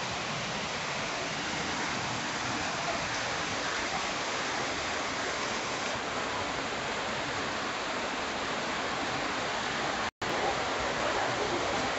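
Steady rain falling, an even hiss with no let-up. It cuts out for an instant about ten seconds in.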